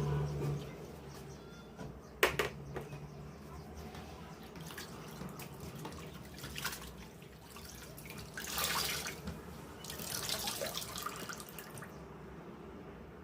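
Water running from a kitchen tap into the sink in two short spells, over a steady low hum, with a sharp knock a couple of seconds in.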